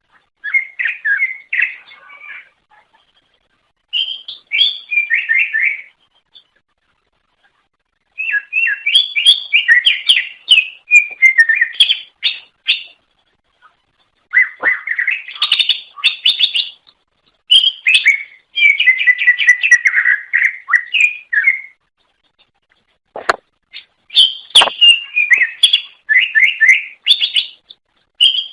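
A cucak ijo (green leafbird) singing in bursts of rapid, sliding chirps and whistled notes, with short pauses between phrases. Two sharp clicks come near the end.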